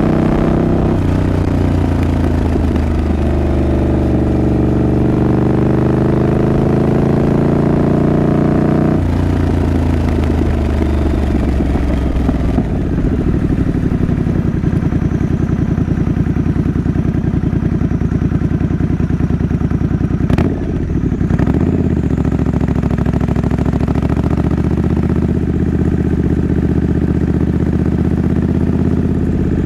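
Triumph Scrambler 900's parallel-twin engine under way, its revs rising steadily, then dropping sharply at a gear change about nine seconds in before climbing again. There is a brief break in the engine note about twenty seconds in.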